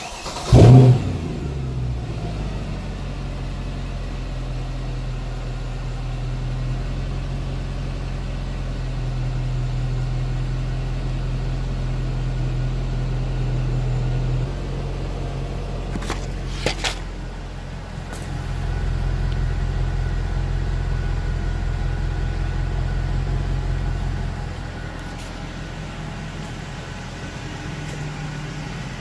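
Mercedes-Benz M156 6.2-litre V8 starting with a brief rise in revs, then idling. The idle level shifts up and down several times, with a couple of sharp clicks about 16 seconds in. This is the noisy, rough idle that the mechanic put down to a failed exhaust camshaft lifter.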